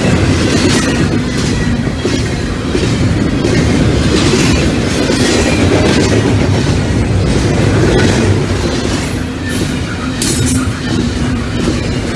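Norfolk Southern double-stack container train's well cars rolling past close by. Steel wheels make a loud, steady rumble on the rail, with irregular clicks and clanks over it.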